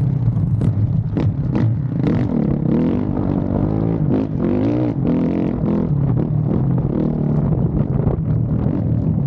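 Motocross bike engine revving continuously, its pitch rising and falling with the throttle, with a few sharp clicks in the first couple of seconds.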